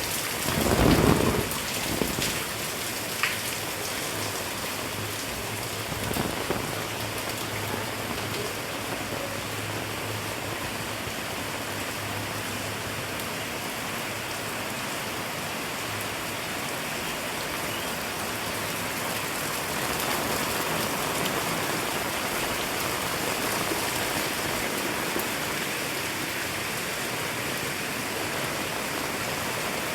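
Heavy rain falling steadily as a dense, even hiss of drops. A short low rumble about a second in is the loudest moment, and a fainter one follows about six seconds in.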